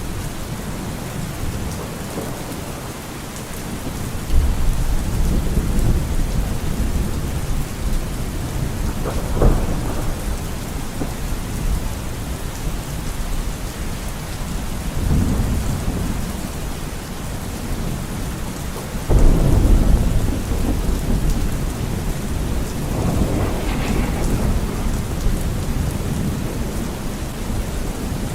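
Steady rain with thunder rumbling several times. A low rumble starts suddenly about four seconds in, there is a sharper crack near ten seconds, and another strong rumble breaks in at about two-thirds of the way through.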